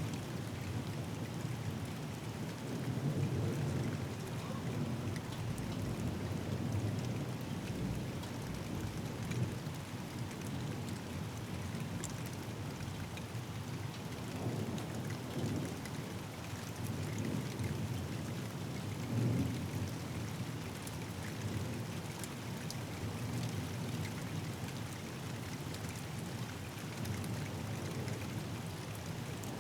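Thunderstorm: steady rain falling, with low rolls of thunder. A loud roll is dying away at the start, and softer distant rumbles swell up several times after it.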